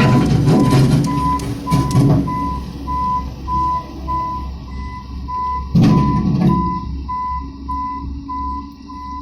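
Caterpillar 226B skid steer loader running, its backup alarm beeping steadily about twice a second over the low engine rumble. The engine noise is heavy for the first two seconds, then drops. There is a loud clatter about six seconds in.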